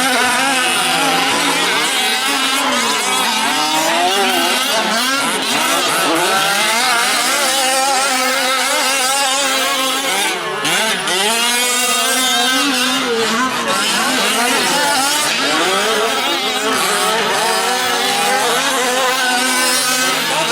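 Several fifth-scale gas RC off-road trucks' small two-stroke engines racing together, their pitches overlapping and rising and falling continuously as they rev up and back off around the track.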